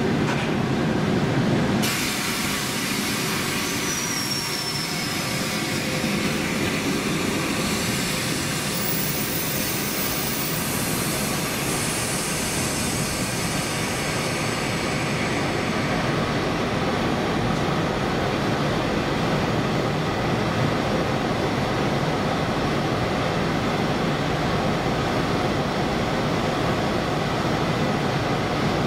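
Passenger train coaches rolling past and pulling away: a steady rolling noise of wheels on the rails, with a brief falling wheel squeal about four seconds in.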